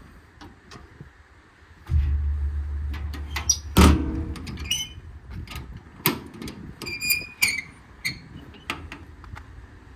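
Steel service-body compartment door being handled and shut: a low rumble, a loud clunk about four seconds in, then latch clicks and short metal squeaks.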